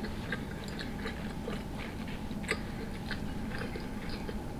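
Close-up chewing of a mouthful of sauce-drenched potato, king crab and sausage: irregular small mouth clicks and smacks, with a sharper click about halfway through.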